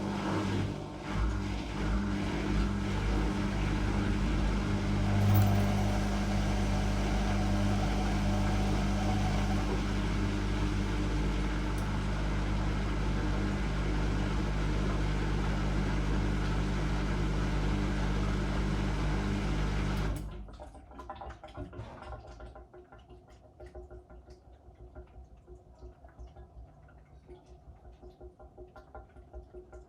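Whirlpool Indiana 1400 washing machine running with a steady low hum that cuts off suddenly about twenty seconds in. After that only faint, uneven sounds from the machine remain.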